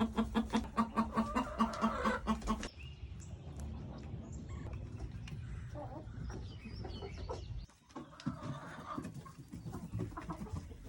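Chickens clucking: a rapid run of clucks, about five a second, for the first two and a half seconds, then quieter scattered clucks and short calls.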